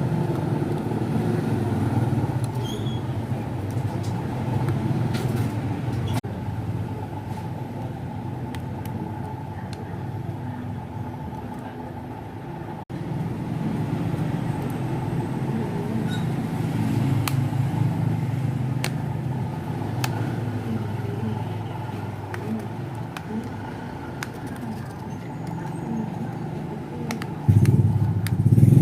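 Steady low rumble of motor vehicle traffic, with a few faint clicks.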